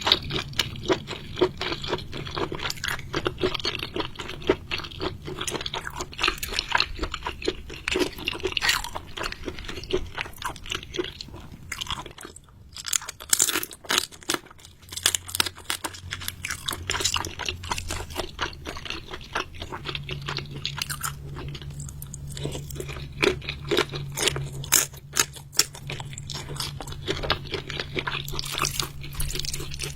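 A person chewing and crunching seafood with many irregular crisp crunches and wet chewing clicks, pausing briefly about halfway through.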